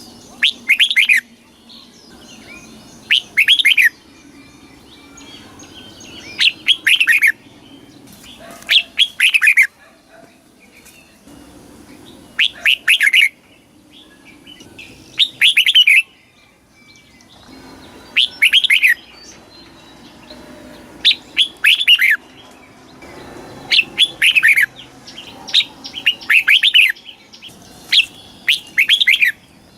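Red-whiskered bulbul singing: short, rapid warbling phrases of about a second each, repeated every two to three seconds.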